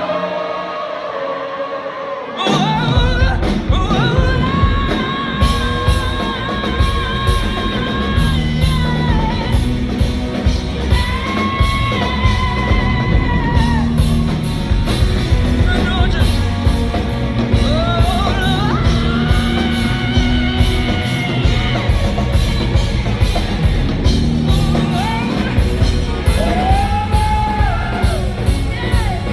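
Live rock band playing with a lead vocalist holding long, wavering notes. The full band with drums crashes in about two and a half seconds in and keeps a steady beat.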